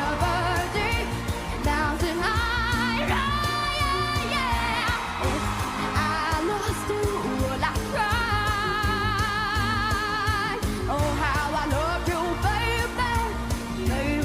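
A nine-year-old child singing a song over band accompaniment, twice holding a long note with a wide vibrato.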